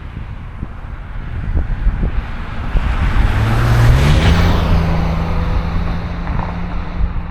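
A motor vehicle passes close by: its road noise swells to a peak about four seconds in and then fades, while an engine hum rises in pitch and holds. Wind buffets the microphone throughout.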